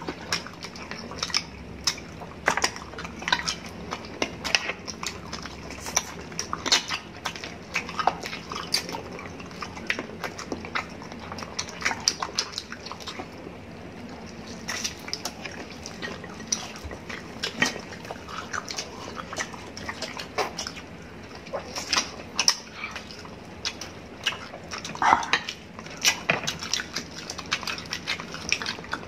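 Close-up eating sounds of several people eating spit-roasted chicken with their hands: irregular chewing and lip-smacking clicks, with the odd sharper snap.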